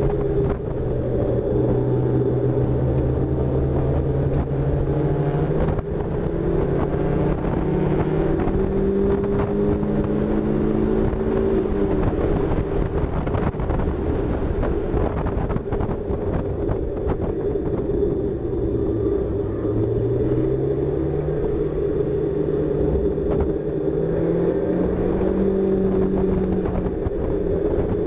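1999 Mazda Miata's 1.8-litre four-cylinder engine heard from inside the open cockpit under track driving. It pulls steadily, climbs in pitch from about six seconds in, and falls away near twelve seconds as the driver lifts. It climbs again from about nineteen seconds and then holds. Wind noise rushes over the open cockpit throughout.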